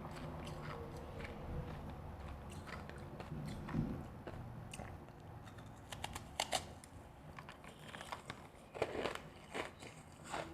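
A person biting and chewing refrozen powdery ice close to the microphone: irregular crisp crunches, sparse at first, then coming quicker and louder about halfway through.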